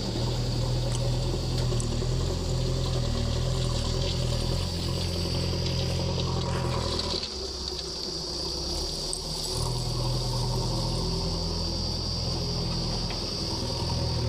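JCB 3DX backhoe loader's diesel engine running steadily under a steady high-pitched whine. The engine note drops and changes about halfway through, then returns.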